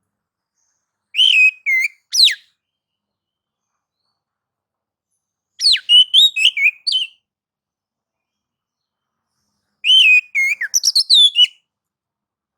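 Oriental magpie-robin (kacer) singing three short phrases of rapid, sliding whistled notes a few seconds apart. It is the excited song that bird keepers call 'nagan' and 'ngobra' mode.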